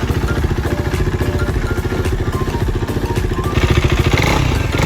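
KTM Duke 390's single-cylinder engine running just after a top-end repair meant to stop it burning oil, with a steady fast beat of firing pulses. It gets louder and harsher about three and a half seconds in.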